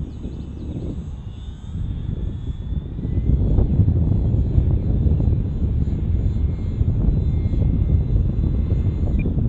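Gusty wind buffeting the microphone as a low rumble, growing louder about three seconds in, with the faint whine of the UMX Timber micro RC plane's small electric motor and propeller drifting in pitch.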